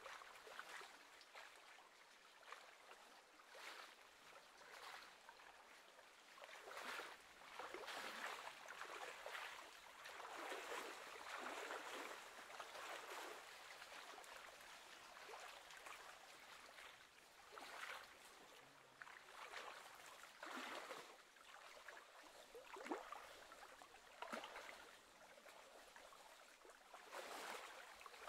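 Faint small waves lapping at the lake's edge, coming in irregular washes.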